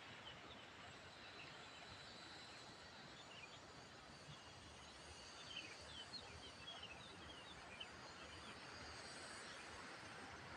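Faint, short high-pitched bird chirps over a steady outdoor hiss, coming in a cluster about halfway through.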